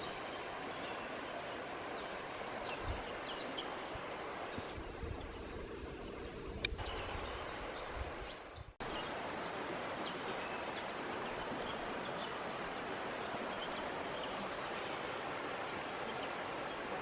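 Outdoor bush ambience: a steady hiss of wind or running water, with scattered short, high bird chirps and a few soft low thumps. It breaks off abruptly about nine seconds in and resumes at the same level.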